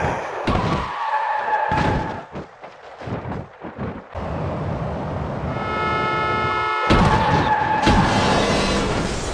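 Car tyres squealing in skids, with a series of sharp crash impacts and thuds.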